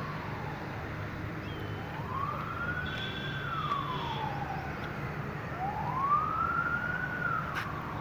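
An emergency vehicle siren in a slow wail, its pitch rising and falling twice over a steady low hum. A couple of sharp clicks come near the end.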